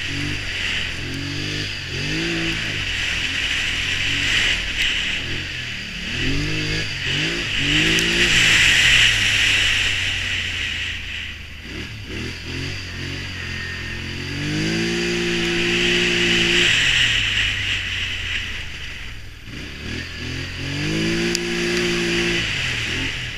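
Polaris Sportsman Touring 1000 ATV engine revving up and dropping back again and again as it is ridden hard, with two longer stretches held at high revs in the second half.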